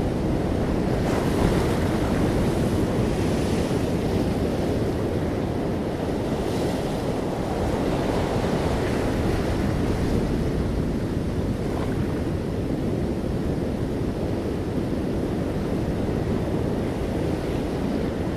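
Ocean waves breaking on a beach: a continuous low rush of surf, with a brighter hiss of a breaking wave about a second in and again about six seconds in.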